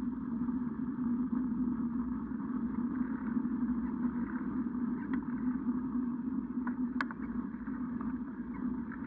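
Steady droning and rolling noise of a bike ride, with a sharp click about seven seconds in.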